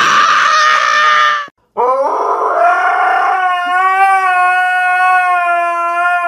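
A husky howling: one long howl that rises at the start and then holds steady on one pitch for about four seconds. Before it, a loud, rougher sound lasts about a second and a half and breaks off abruptly.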